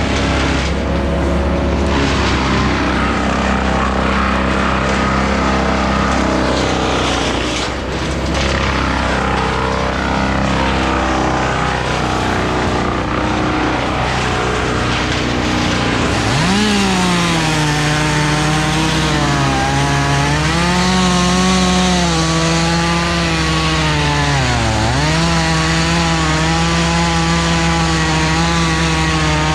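A chainsaw runs under a steady low engine drone. About halfway through, the chainsaw takes over, its pitch wavering and dipping sharply for a moment as it cuts through the wood.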